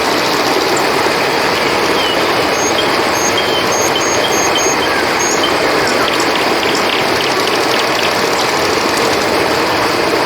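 Steady rush of flowing river water, with a run of short, high chirps a few seconds in.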